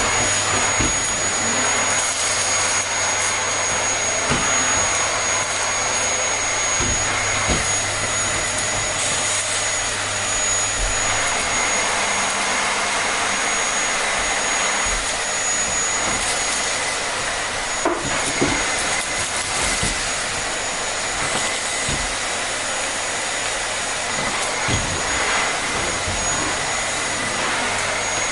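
Vacuum cleaner running steadily: a constant rushing of air with a high whine over it and a few small knocks.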